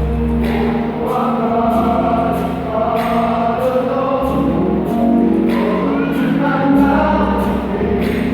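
A gospel vocal group singing in harmony, backed by sustained bass notes that change every couple of seconds and a steady beat of light high strokes.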